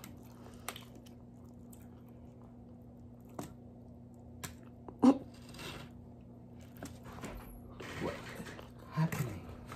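Close-up chewing of a sushi roll topped with crunchy tempura flakes, with a few sharp clicks and a short vocal sound about five seconds in, over a steady low hum.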